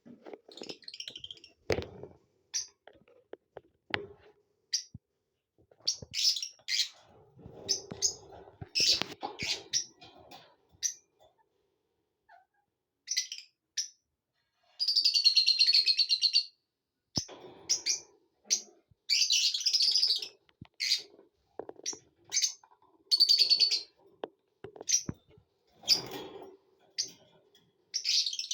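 Lovebirds chirping in short, sharp high calls with irregular pauses, and one longer chattering call about halfway through.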